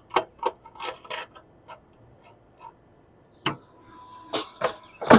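Irregular light clicks and taps of small metal hardware being handled while searching for screws, with a sharper knock near the end.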